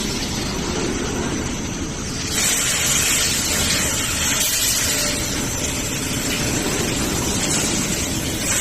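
Steady noise of industrial machinery running, with no clear rhythm; the sound changes abruptly about two seconds in, becoming brighter and hissier.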